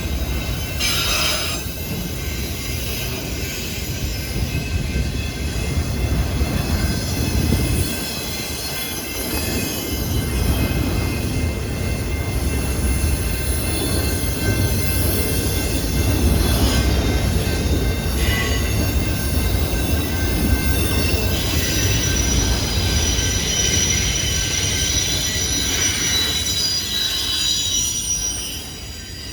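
Railway train rolling past: a steady low rumble of cars on the rails with high, steady wheel squeal, clearest in the last third before the sound falls away near the end.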